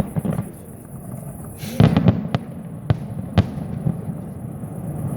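A fireworks display going off: a loud burst about two seconds in, followed by three sharp cracks about half a second apart.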